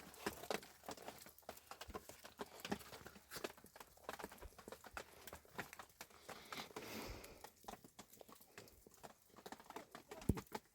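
Irregular steps crunching through snow, a dense run of short crunches, with one louder low thump near the end.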